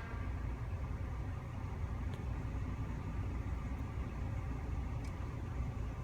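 Steady low engine rumble of road vehicles, with no horn or siren sounding.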